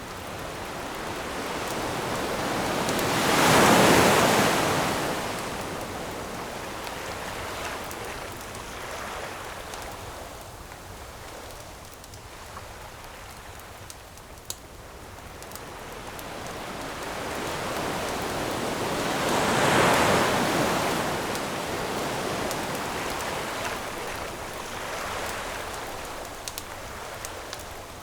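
Ocean waves breaking on a shore: the surf swells to a loud wash about four seconds in and again about twenty seconds in, then draws back between. A few faint pops of a crackling campfire.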